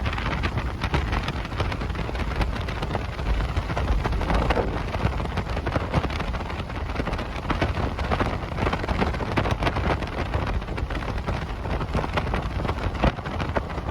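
Loud, steady water noise, a dense pattering like heavy rain or splashing water over a deep rumble.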